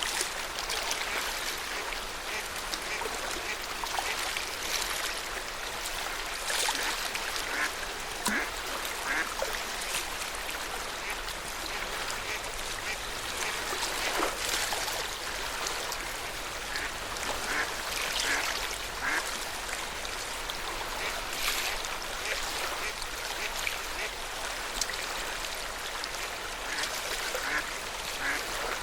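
Small waves lapping and splashing against the lakeshore in irregular, uneven slaps.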